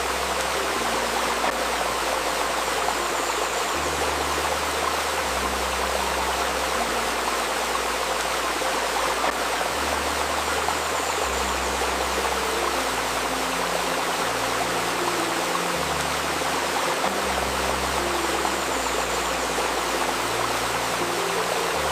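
A babbling river or stream running steadily, overlaid with soft, low sustained synth notes that change every second or two and a faint steady tone near 528 Hz.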